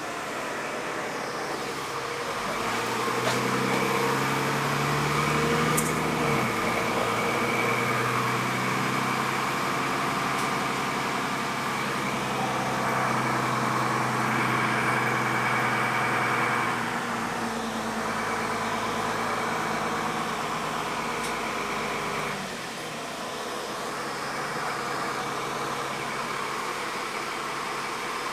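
City bus engine running, its pitch climbing for a few seconds early on as it pulls away, then holding steady with a constant hum. It eases off about twenty-two seconds in.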